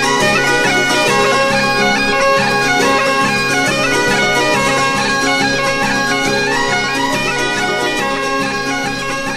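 Bagpipe music: a pipe tune moving in quick steps over a steady drone.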